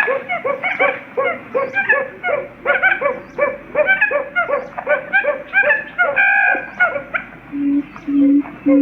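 Quail calls used as a trapping lure. A fast, even run of short chirping calls comes about three a second, then near the end a series of low, steady hoots about two a second.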